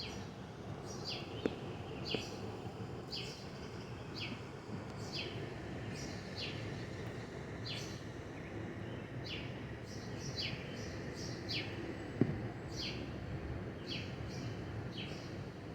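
A bird chirping over and over, short sharp chirps that drop in pitch, about one a second, over a steady low background hum, with two brief clicks.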